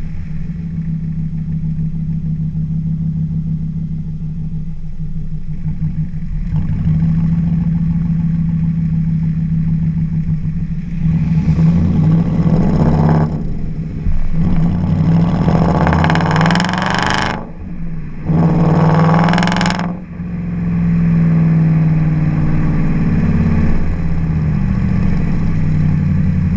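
Audi B7 S4's 4.2-litre V8 through a custom cat-back Akrapovic exhaust, idling steadily, then revved three times about halfway through before settling back to idle.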